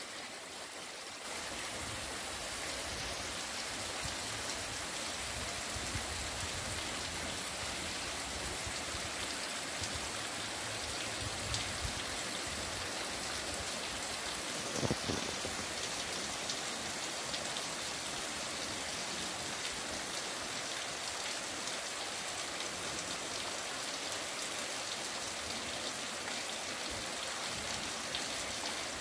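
Heavy rain falling steadily on a paved street, with runoff water streaming along it, a continuous hiss. A single brief knock sounds about halfway through.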